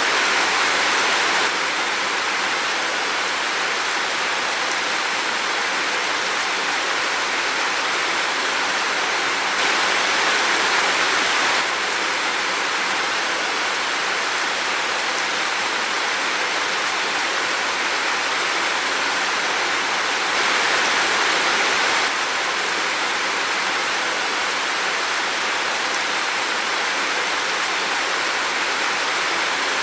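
Heavy rain falling steadily, a dense even hiss, briefly a little louder three times, about every ten seconds.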